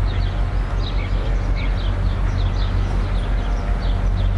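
Birds chirping, short high falling notes a couple of times a second, over a steady low diesel rumble from an approaching NJ Transit GP40PH-2 locomotive.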